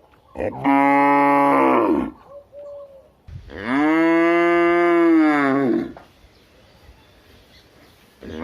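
A cow mooing: two long moos, the second longer, each dropping in pitch as it ends.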